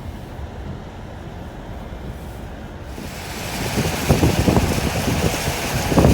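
Low rumble of a car moving along the road for about three seconds, then wind rushing and buffeting the microphone, growing louder from about three seconds in.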